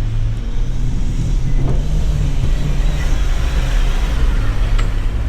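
Four-wheel-drive engine labouring under load up a soft sand climb, with a hiss that swells midway; it is running short of momentum and fails to make the climb.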